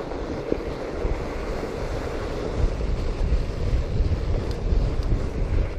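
Steady wind noise buffeting the microphone of a moving fat bike, with a low rumble.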